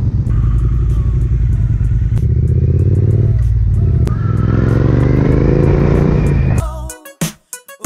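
Triumph motorcycle engine pulling away and accelerating, its pitch climbing; it dips and starts climbing again about three and a half seconds in at a gear change. The engine sound cuts off near the end and gives way to music.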